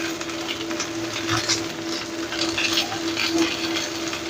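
Oil sizzling and crackling in a wok as fish, ginger and spring-onion stalks fry, with a spatula stirring through the pan, over a steady hum.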